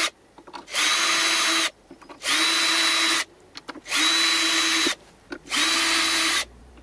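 Power drill boring pilot holes through a drilling template into a wooden drawer front: four short bursts of about a second each, the motor winding up to a steady whine each time, with small clicks and taps in the gaps between holes.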